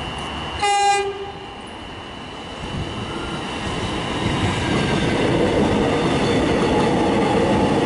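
A short single toot of an electric suburban train's horn about a second in. Then the train passes close by, its running noise building steadily and staying loud.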